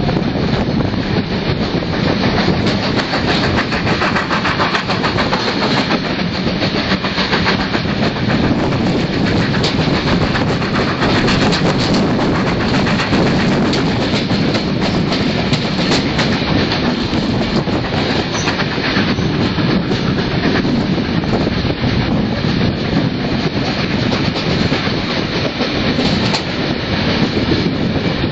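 Steam-hauled passenger train running along the track: steady rolling noise from the carriage with the wheels clicking over the rails.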